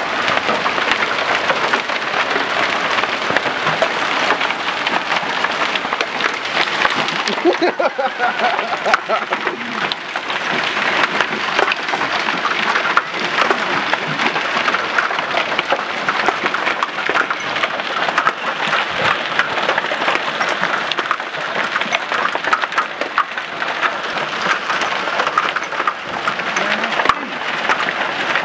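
Hail falling hard: a dense, steady clatter of countless small hailstones striking surfaces.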